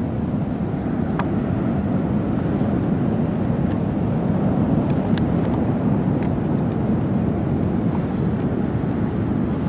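Steady low rumble of ocean surf breaking on the beach, with a few faint clicks over it.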